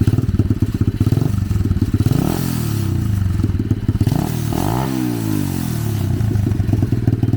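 125cc dirt bike engine on a drift trike, running with a fast, even idle pulse, then revved up twice about two and four and a half seconds in before dropping back to idle near the end.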